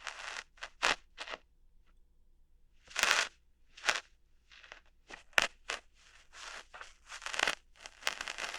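Ear-hair plucking ASMR: a dozen or so crunchy snaps and short crackling rustles at an ear, coming in an irregular rhythm, some sharp and brief, a few drawn out for about half a second.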